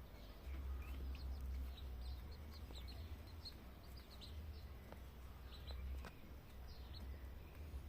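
Bantam chicks peeping: many short, high peeps, several sliding downward in pitch, scattered throughout, over a steady low rumble.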